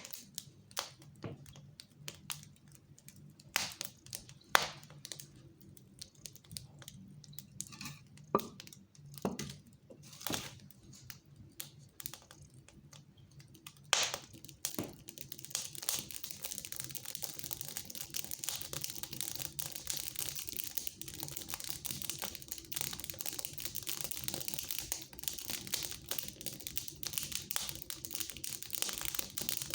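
Wood fire crackling in a fireplace: scattered sharp pops and cracks for the first half, then from about fifteen seconds in a denser, continuous crackle with a hiss.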